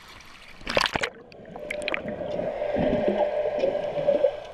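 A short splash, then about three seconds of loud rushing, gurgling water.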